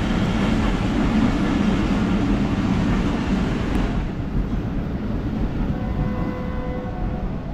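Another train passing on the neighbouring track: a steady rumble of wheels and carriages that eases off sharply about four seconds in, leaving a quieter, lower rumble.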